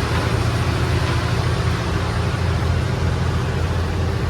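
Steady low drone of a river ferry boat's engine, heard on board.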